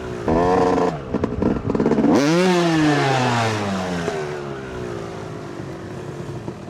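Dirt bike engine revving in short bursts, with one sharp rev up and back down about two seconds in, then the engine note dropping and fading away.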